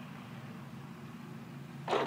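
A person coughs once, sharply, near the end, over a steady low hum.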